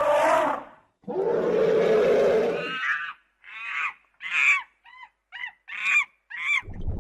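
An animal calling: a short call, then a long harsh call, then a run of seven short calls, each bending down in pitch, about two a second.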